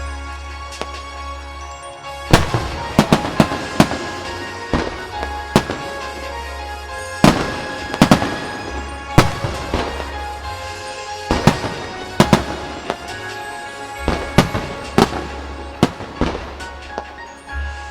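Aerial fireworks bursting over music: sharp booms and crackling reports, the first about two seconds in, then many more, some in quick clusters, with the music running on underneath.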